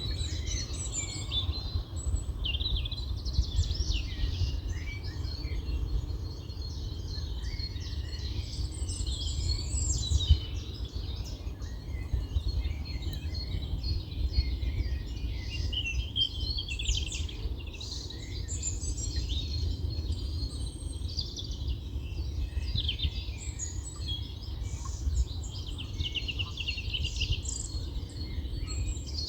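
Several small songbirds singing and chirping over one another in a dense, continuous chorus, over a steady low rumble.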